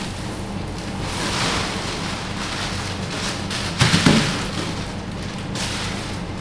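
Flux powder pouring from a cardboard box onto a concrete floor: a steady hissing rush, over a steady low machine hum.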